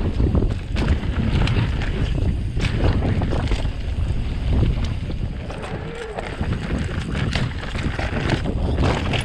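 Wind buffeting the microphone on an e-bike ride over a rough forest trail, with a steady low rumble and frequent clicks and rattles from the bike over the ground.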